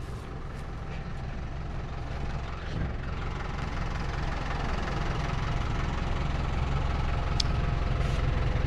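Truck engine running steadily and growing gradually louder, with one short sharp click about seven seconds in.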